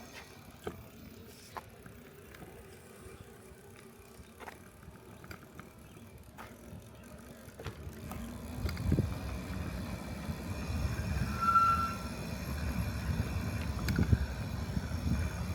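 Bicycle riding with wind buffeting the microphone, building into a gusty low rumble about halfway through, with light clicks and rattles from the bike.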